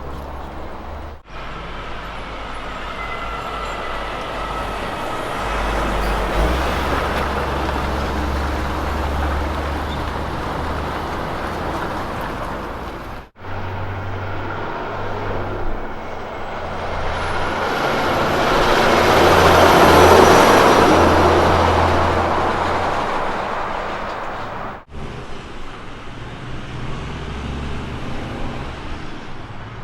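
Road train trucks' diesel engines running, the sound changing abruptly twice. In the middle stretch a road train approaches and passes, growing louder to a peak about two-thirds of the way through and then fading.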